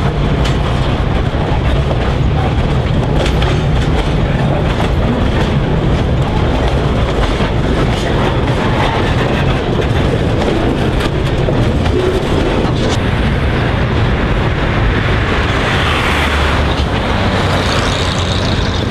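Narrow-gauge wheat train on the move: a steady low engine drone with the wagons' wheels clicking over the rail joints.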